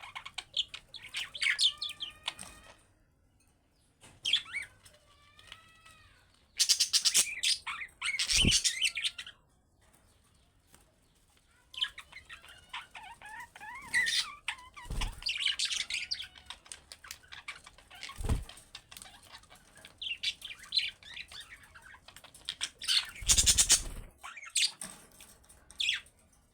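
Pet budgerigars chirping and chattering in bouts of quick, curving chirps, with short pauses between bouts. There are louder scratchy bursts about a quarter of the way in and near the end, and a few brief low thumps.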